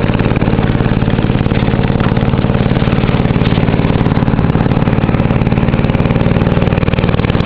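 Boat engine running steadily, with a fast, even pulse.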